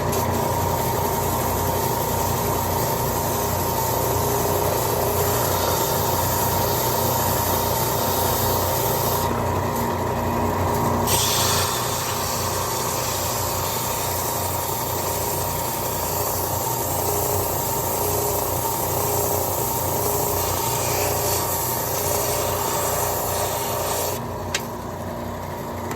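Ridgid oscillating benchtop belt sander running together with a shop dust collector, with wood rubbing against the sanding belt. The noise steadies on, the high hiss briefly thins about ten seconds in, and near the end the level drops with a single sharp click.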